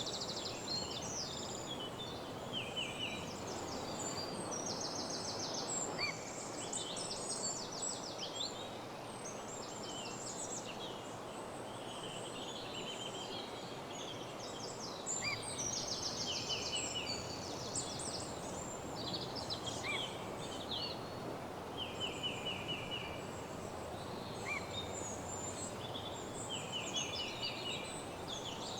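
Several woodland songbirds singing at once, rapid trills and short chirps overlapping continuously, over a steady low rush of background noise.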